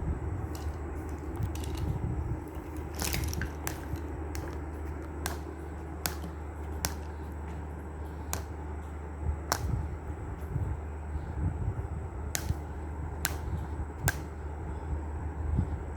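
Parrot biting and chewing at a toy: irregular sharp clicks and cracks, with a quick cluster about three seconds in, over a steady low hum.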